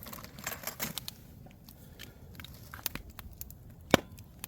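Campfire crackling, with scattered sharp pops and one louder pop about four seconds in.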